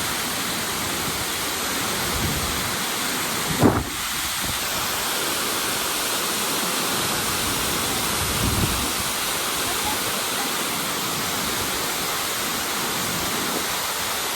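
Steady rushing roar of Tortum Waterfall, an even wash of falling water. A brief low thump comes a little under four seconds in, and a softer low swell near the middle.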